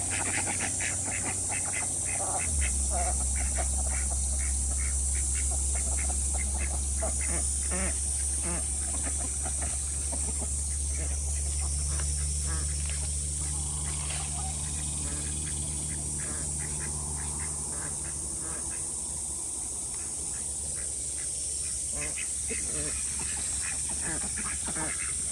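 Khaki Campbell ducks quacking over and over, thickest in the first ten seconds and sparser after, over a steady hiss of water running into the refilling pond. A steady low hum comes in about two and a half seconds in and fades out later.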